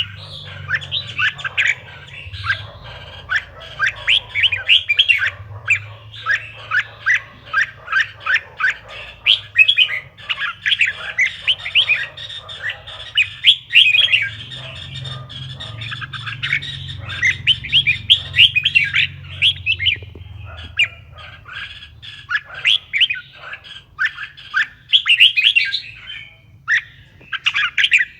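Red-whiskered bulbul song: a fast, dense run of quick sharp chirping notes that breaks up into scattered phrases with gaps in the last third, over a steady low hum.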